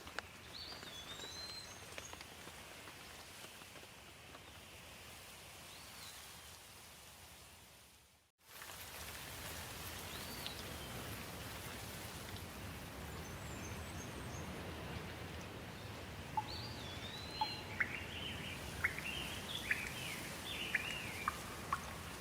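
Steady rainfall with birds chirping now and then. About eight seconds in, the sound fades out to silence for a moment and comes straight back. In the last few seconds a bird sings a quick run of sharp chirps.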